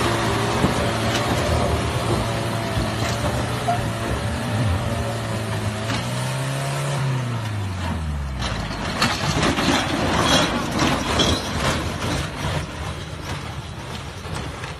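Heavy vehicle engine running steadily, rising briefly in pitch about six seconds in and then winding down and dying away. A run of sharp knocks, clatter and scraping follows.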